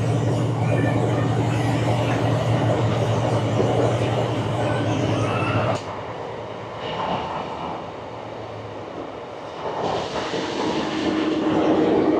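Passenger train running, heard from inside the carriage: a steady low drone that drops abruptly about halfway through, swells a little, then grows louder again near the end.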